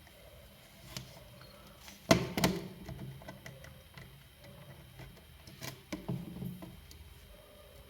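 Scattered small clicks and knocks of tools and parts being handled on a repair bench, the loudest two about two seconds in and two more near the six-second mark.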